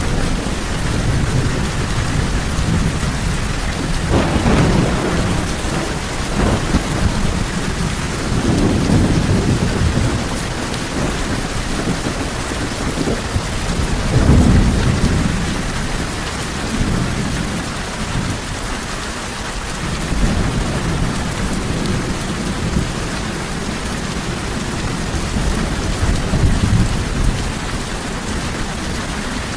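Steady heavy rain with rolling thunder, the low rumbles swelling and fading several times, loudest about fourteen seconds in.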